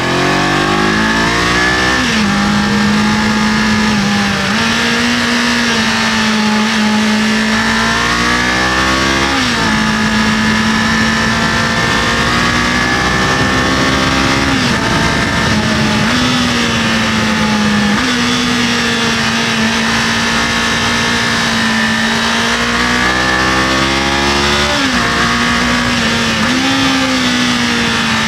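Kawasaki KLE500 parallel-twin engine under way, climbing in revs at the start, then holding steady with several rises and sudden drops in revs as the throttle opens and closes, over steady road and wind noise.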